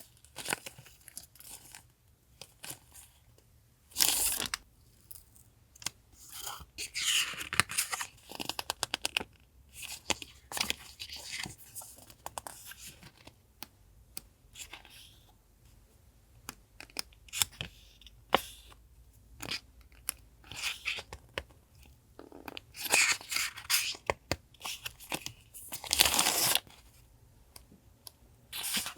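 Stationery packaging and papers being handled, crinkled and torn open, in irregular rustles and clicks with a few longer tearing swishes.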